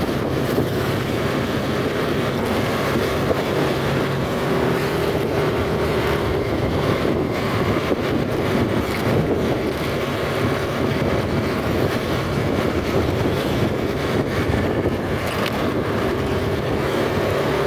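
Motorcycle running steadily on the road, its engine drone mixed with wind and road noise.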